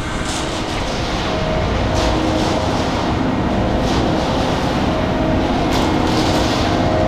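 Loaded concrete mixer truck running steadily, with a constant mechanical noise and faint humming tones.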